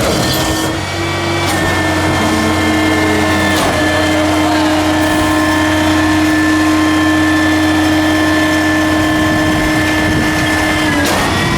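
Diesel engine and hydraulic pump of a Ford L8000 front-loader garbage truck with a Loadmaster body, the pump whining steadily as the hydraulics work. The whine levels off about a second and a half in and drops slightly near the end.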